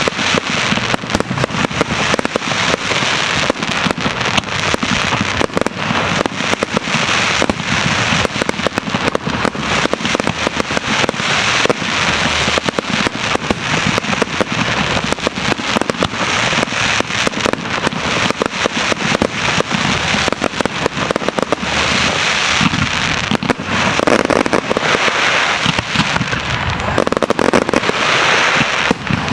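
Grand finale fireworks barrage: many shells bursting in rapid, unbroken succession, with crackling between the bangs.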